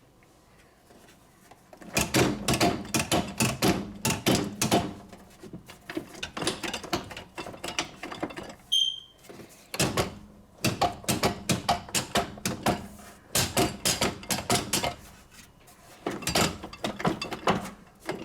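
Loose bottom counterweight of a Hoover 1400 washing machine rattling and knocking, in five bursts of rapid, irregular clatter with short pauses between. The loose weight nuts are the cause of the machine's rattle. A brief high tone sounds about halfway through.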